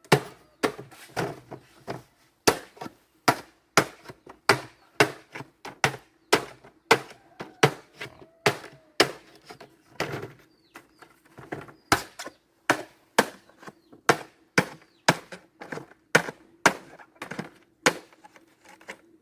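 Wood being chopped with a blade: a long, uneven series of sharp blows, about two a second.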